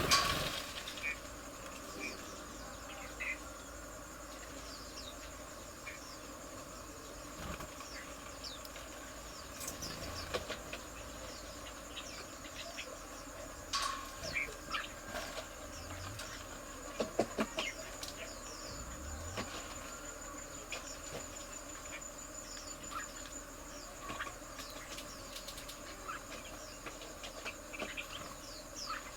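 Garden ambience: a steady high insect drone, with short scattered bird chirps and a few sharp clicks and flutters.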